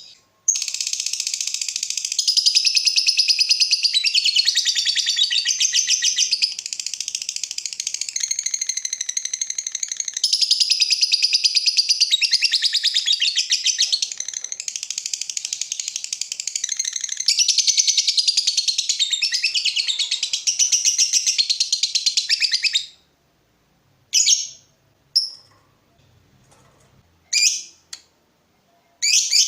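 Lovebird 'ngekek' song: a rapid, high-pitched chattering trill held without a break for about twenty-two seconds, then stopping and followed by a few short separate chirps.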